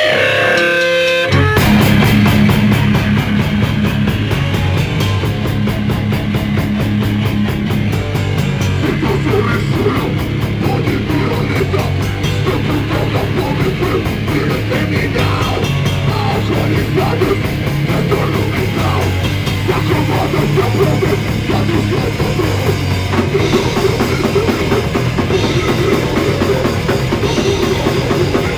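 A loud live band of distorted electric guitar, bass and drum kit, kicking in suddenly about a second in and playing on without a break, recorded on a phone microphone.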